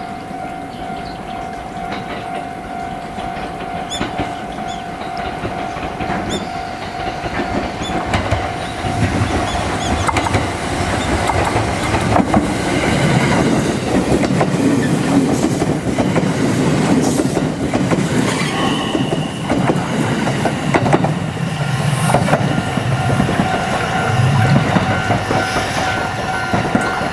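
Train passing, its wheels clattering over rail joints; the sound grows louder about a third of the way in and stays loud.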